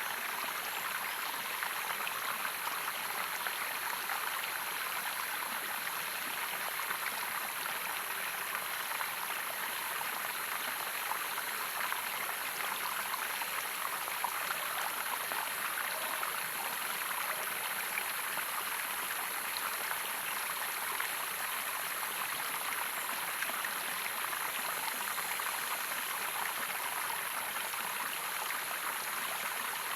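Stream water running and splashing over rocks, a steady even rush.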